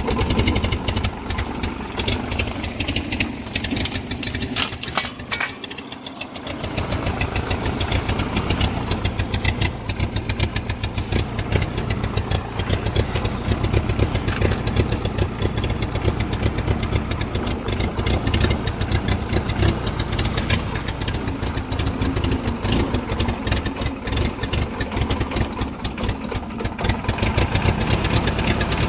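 Ford 2N tractor's four-cylinder flathead engine running cold and rough at idle. It falters and nearly dies about five seconds in, then catches and runs steadily again from about seven seconds. The stumbling comes from a cold engine that won't idle well.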